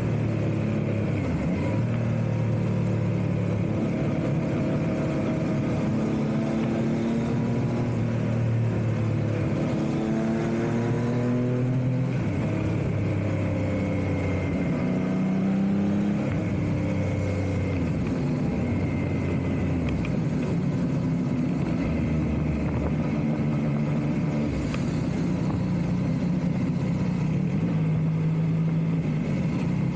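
Yamaha MT-09's inline-three engine running under way, its pitch rising and falling with throttle and gear changes, with a climb in revs about a third of the way in and another about halfway, as the bike slows overall.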